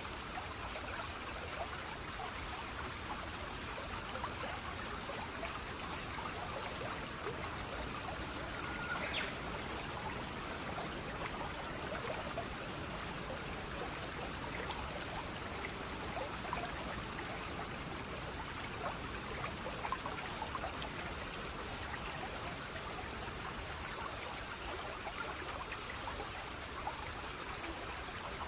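Steady running stream water, babbling and trickling without a break, with a brief faint high chirp about nine seconds in.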